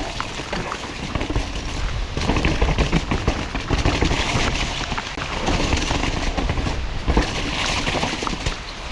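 Mountain bike descending a wet, rooty trail at speed: wind noise buffeting the action camera's microphone, with rapid clattering knocks as the bike hammers over roots and ruts.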